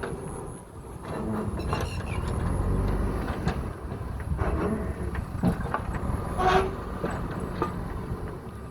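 JCB backhoe loader's diesel engine running under work, with a series of metal clanks and rattles, the loudest a ringing clang about six and a half seconds in.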